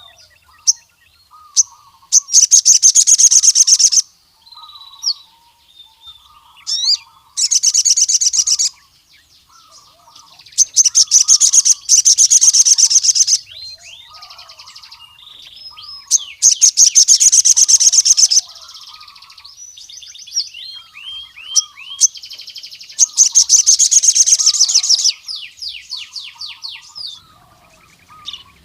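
Male sogon (ruby-cheeked sunbird) singing. It gives loud, rapid, high trills of about two seconds each, repeated several times, with thin high chirps and softer, lower twittering notes between them.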